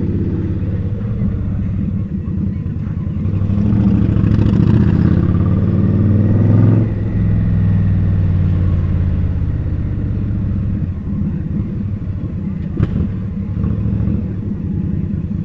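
Indian Scout's V-twin engine running on the move in city traffic, pulling harder and getting louder from about two seconds in, then easing off abruptly about halfway through and carrying on more steadily. A short sharp tick comes about two-thirds of the way through.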